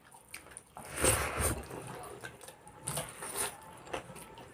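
Quiet eating sounds: chicken and rice being chewed and handled on a plate, with a soft swell about a second in and a few small clicks later on.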